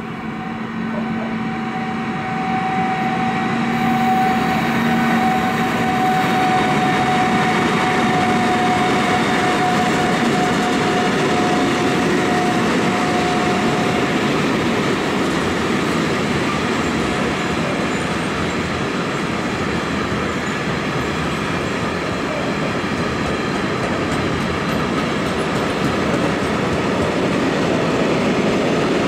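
Freight train rolling past close by, growing louder over the first few seconds and then a steady rumble of wagons on the rails. A steady whine runs through the first half and fades out.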